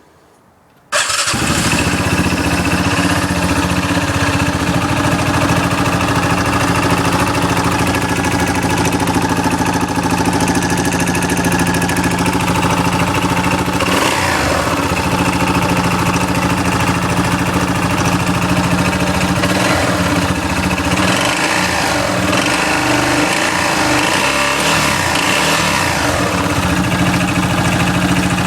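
A 2008 Yamaha Rhino's single-cylinder engine starts about a second in and runs, with the clutch removed from the crank, making a rattling knock that sounds like maracas. The revs rise and fall a few times in the second half.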